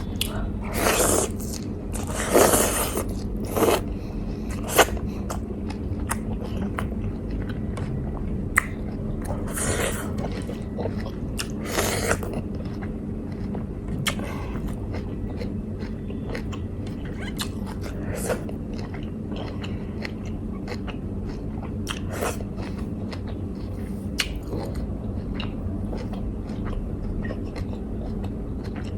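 Food being chewed and bitten close to the microphone, with irregular clicks and a few louder bites or crunches, most of them in the first dozen seconds, over a steady low hum.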